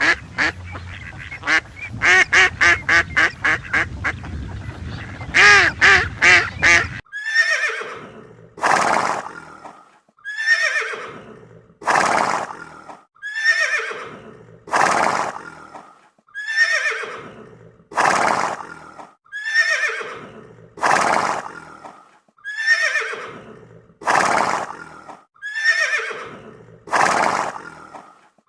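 Duck quacking in quick runs, then from about seven seconds in a horse whinnying over and over, each call falling in pitch, about every one and a half seconds.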